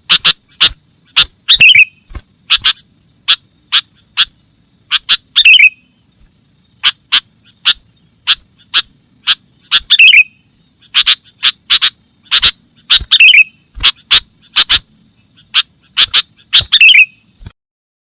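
Sooty-headed bulbul giving short, sharp call notes again and again, singly and in quick runs, over a steady high insect buzz; everything stops just before the end.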